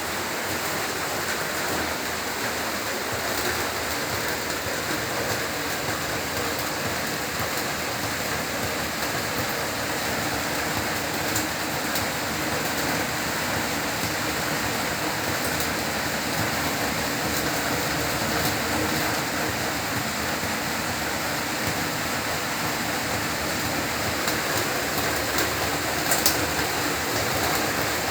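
Heavy rain falling steadily, a dense hiss with scattered drops ticking on hard surfaces, and a few sharper drip ticks near the end.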